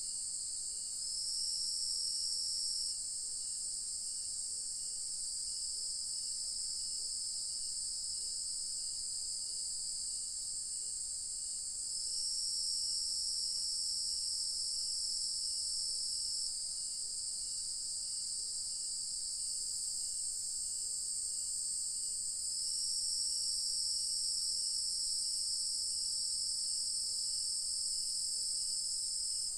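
Evening insect chorus: a steady high-pitched trill, thickened three times by a second, louder trilling layer that holds for a few seconds before dropping out. A faint, regular chirping pulse runs beneath, about one and a half a second.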